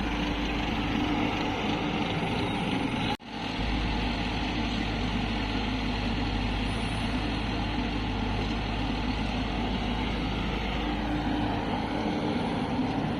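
Diesel engines of a working excavator and farm tractors running steadily. The sound cuts out for a moment about three seconds in.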